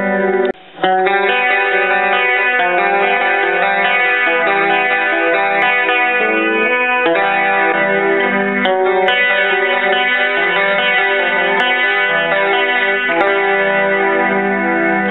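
Clean electric guitar played through a Roland Jazz Chorus combo amplifier: strummed chords left ringing, with new strums every second or so and a brief break about half a second in.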